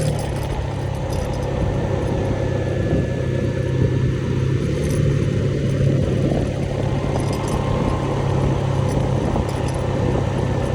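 Motorbike engine running at a steady pitch while riding, with a steady rushing noise over it.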